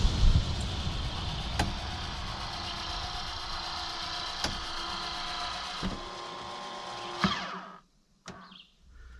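Maxxair Maxxfan roof vent fan running with a steady rush of air, with a few clicks from its controls. About seven seconds in its motor whine falls in pitch as the fan is switched off and spins down, and the sound drops to near silence.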